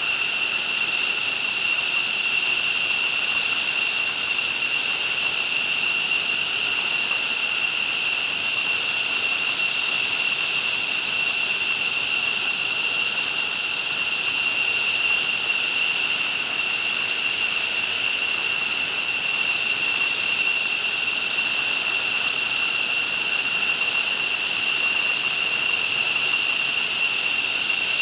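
F-15 fighter's twin jet engines running steadily: a high, unchanging whine of several tones over a hiss.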